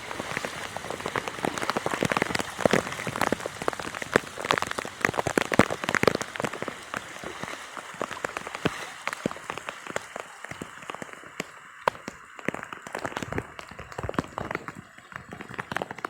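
Heavy rain falling, with many sharp drop hits close by. The downpour thins out somewhat after about ten seconds.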